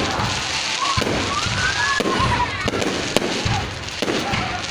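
Fireworks going off: dense crackling with repeated sharp bangs throughout.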